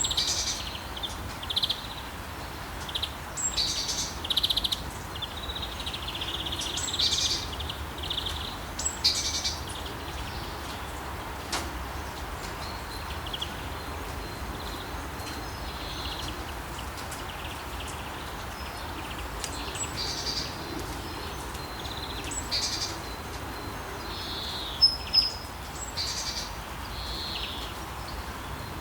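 Steady rain hiss with songbirds chirping and calling in short high phrases, busiest in the first third and again near the end, with a sparser stretch in the middle.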